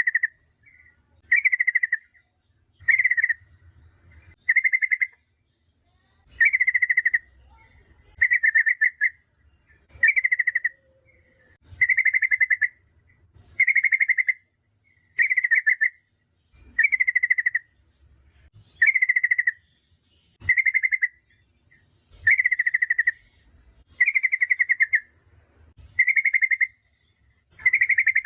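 Yellow-vented bulbul (trucukan) calling: short chattering phrases, each a quick run of stuttered notes, repeated about every second and a half to two seconds.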